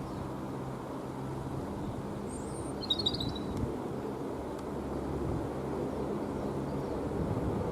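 Outdoor ambience with a low, steady, motor-like hum, and a single brief bird chirp about three seconds in.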